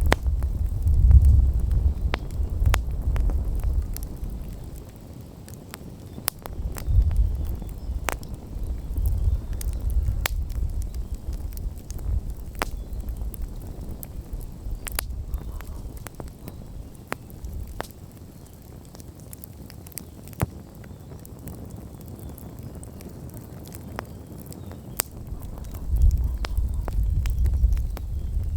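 Campfire crackling, with sharp pops scattered irregularly throughout. Gusts of low wind rumble on the microphone swell near the start, in the middle and near the end.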